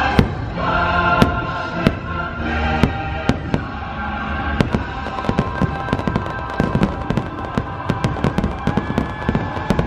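Fireworks show: aerial shells banging over a music soundtrack with held chords. The bangs come a few at a time at first, then many in quick succession from about halfway through.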